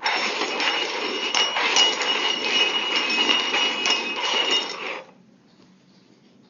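Hard containers being slid and shuffled around on a hard surface, clattering and clinking with a ringing tone for about five seconds, then stopping abruptly.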